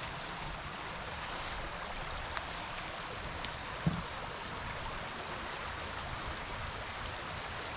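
Shallow river water running steadily over a salmon spawning bed, a constant even rush.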